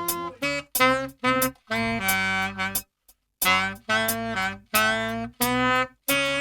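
Saxophone playing a melody of short separate notes, with a brief pause about three seconds in.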